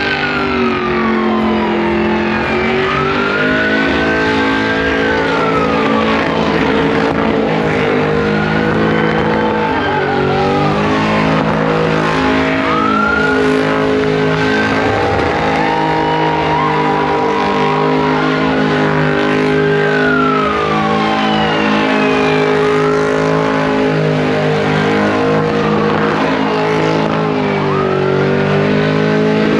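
Car engine held at high revs, its pitch rising and falling every few seconds, with tyre squeal and tyre noise from a burnout.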